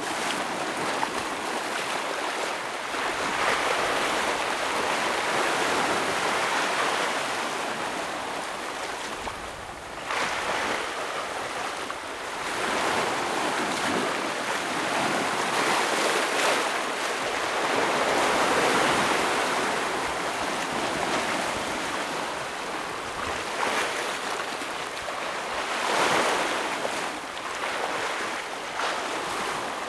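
Ocean waves breaking and washing over rocks on a rocky shore, a continuous surging wash that swells and eases every few seconds.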